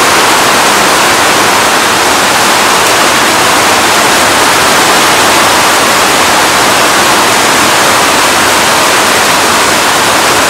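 Heavy hurricane rain pouring down in a loud, steady hiss.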